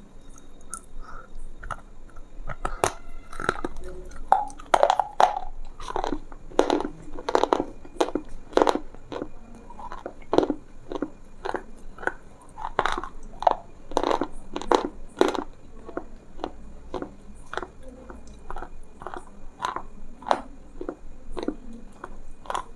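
Close-miked crunching and chewing: someone biting into and chewing crisp food, an irregular run of sharp crunches, loudest in the middle stretch.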